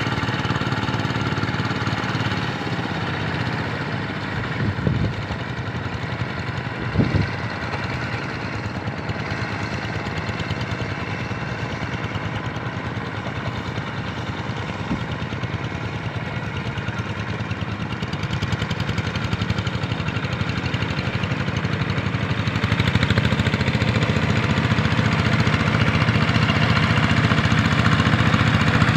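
Kubota RD85 single-cylinder diesel engine of a hand tractor running steadily, with two brief knocks a few seconds in; it grows louder in the last few seconds.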